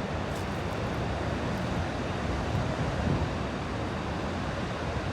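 Ocean surf washing on the beach, with wind buffeting the microphone as a steady, uneven low rumble.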